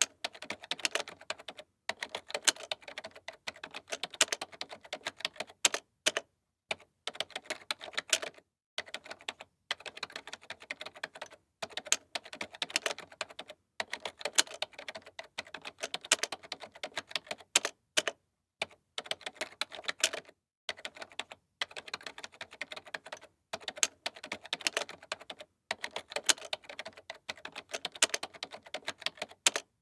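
Typing on a computer keyboard: fast runs of key clicks, broken by brief pauses every second or two.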